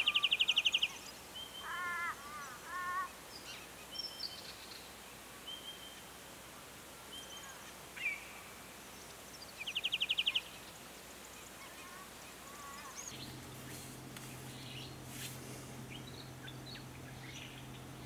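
Small birds calling: a short, rapid, buzzy trill at the start and again about ten seconds in, with scattered short chirps and whistles between. From about thirteen seconds in, a steady low hum sits under faint chirps and ticks.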